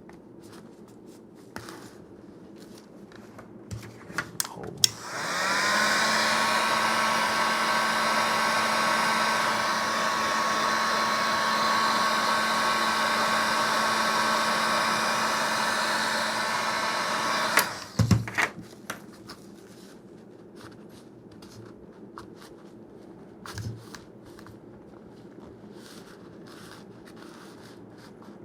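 Heat gun switched on about five seconds in, its fan whining up to speed and then blowing steadily for about twelve seconds, heating the Kydex holster so it can be bent; it cuts off abruptly with a couple of clicks.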